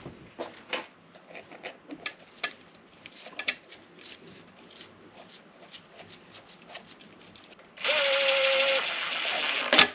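Light clicks and taps of metal parts and tools being handled, then a small power driver whirring for about two seconds near the end as the top bolt of the oil breather box is run in, finishing with a sharp click.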